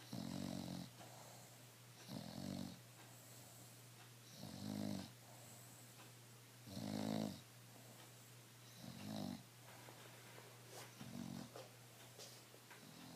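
A bulldog snoring, a short rasping snore about every two seconds in an even rhythm.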